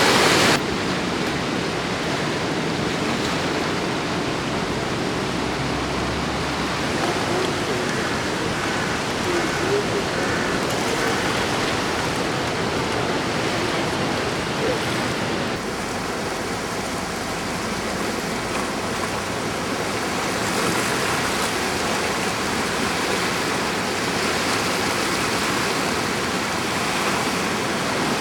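The River Exe in flood, its swollen water rushing steadily.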